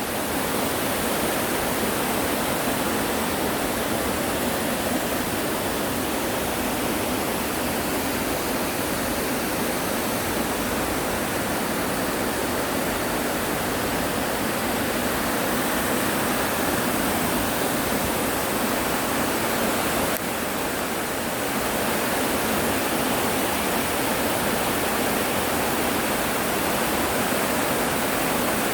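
Yongchu Falls waterfall in Juwangsan's Yongchu Gorge, a steady, loud rush of falling water that barely changes, with one brief dip in level about twenty seconds in.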